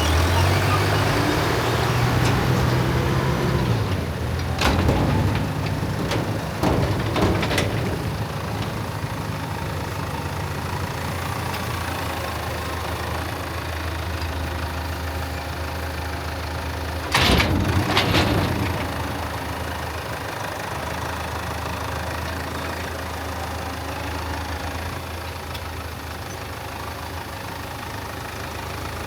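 An engine running steadily, its pitch rising and falling in the first few seconds. Loud clanks come about five and seven seconds in, and a louder double clank about seventeen seconds in.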